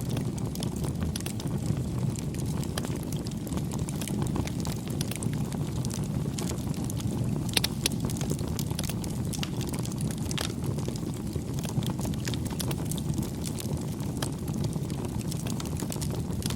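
Wood campfire burning: a steady low rumble of flame with frequent crackles and pops, a couple of sharper snaps about halfway through.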